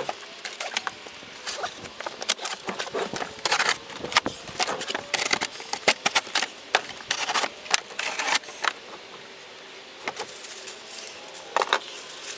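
Cardboard and packing being handled while a table saw is unboxed: an irregular run of clicks, rustles and knocks.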